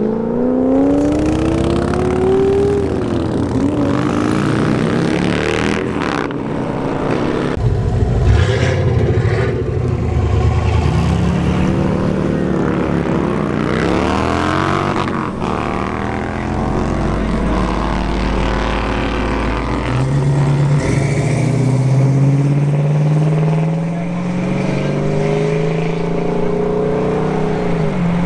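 Engines of tuned cars revving and accelerating away one after another, their notes rising and falling repeatedly and overlapping, with a few sharp cracks among them.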